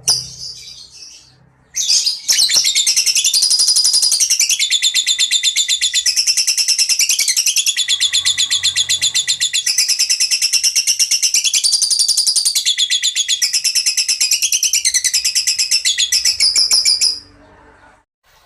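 A songbird's loud, rapid-fire trilled song, the 'tembakan' phrase prized in Indonesian contest birds: a fast, even string of sharp high notes that steps between a few pitch levels for about fifteen seconds and cuts off suddenly near the end. A few short chirps come before it.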